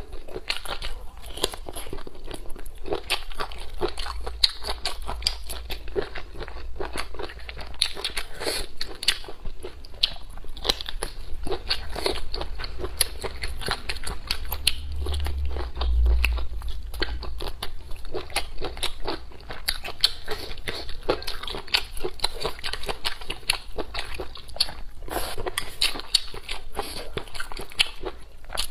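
Close-miked biting and chewing of spicy octopus, a steady run of small mouth clicks and smacks throughout.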